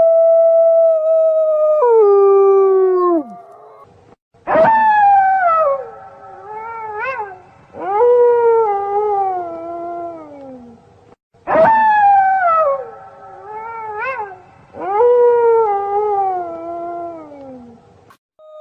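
A pack of wolves howling: several long howls overlap, each rising sharply and then sliding down in pitch, separated by brief pauses. The same sequence of howls plays twice, about seven seconds apart.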